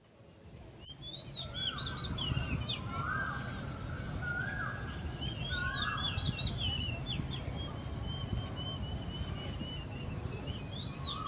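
Birds singing: phrases of quick, high twittering chirps, a lower whistled note that rises and levels off, repeated four times in the first six seconds, and a run of short chirps later on. A steady low rumble of outdoor ambience lies underneath.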